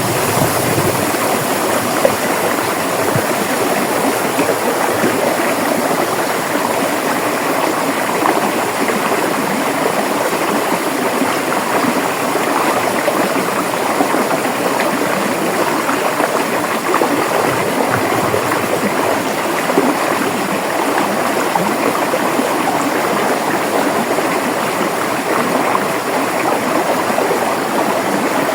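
River water flowing steadily over rocks, a dense, even rushing with fine gurgling texture.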